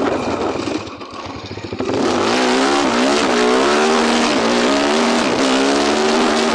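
Tornado 293cc engine running at high revs. The sound dips briefly about a second in, then picks back up to a strong steady note whose pitch wavers up and down with the throttle.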